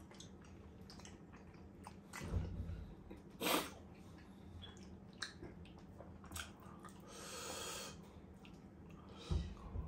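Close-miked mouth sounds of chewing sirloin steak, with scattered small clicks of a fork on the plate. There are a couple of louder short noises about two and three and a half seconds in, and a soft hiss near the end.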